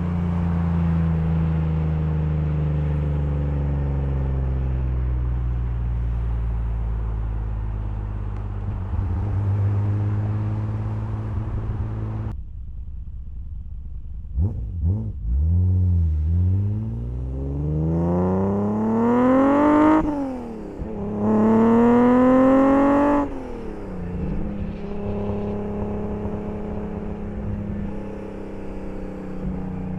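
1983 BMW E30 323i's 2.3-litre straight-six heard from on board. The engine note falls steadily as the car slows, and a couple of short throttle blips follow. Then come two hard pulls, each rising in pitch, with a gear change between them; the second is the loudest. The throttle closes suddenly after it and the engine settles to a steady lower note.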